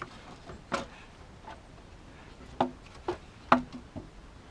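A series of about six sharp, irregular clicks and knocks, the loudest a little past three and a half seconds in: engine parts being handled and set in place under the hood during intake manifold reassembly.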